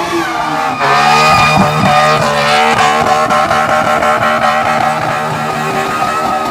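Car engine held at high revs, a steady droning note with a slight waver, which changes abruptly about a second in.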